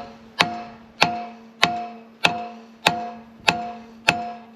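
Steady hammer blows on steel, seven ringing metallic strikes about every 0.6 s, each leaving a pitched ring that dies away. The hammering is meant to drive a stuck bearing out of the mower part, but the bearing is not moving.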